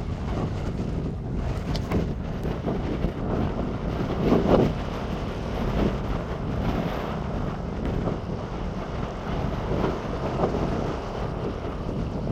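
Wind buffeting the microphone in uneven gusts, with the strongest gust about four and a half seconds in.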